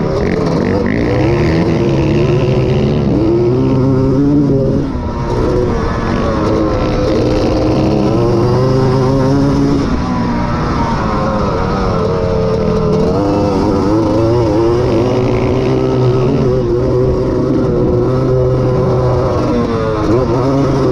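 Honda ATC250R three-wheeler's two-stroke single-cylinder engine at racing speed, its pitch repeatedly climbing and falling as it is run up through the revs and backed off. It backs off briefly about five seconds in and again just before the end.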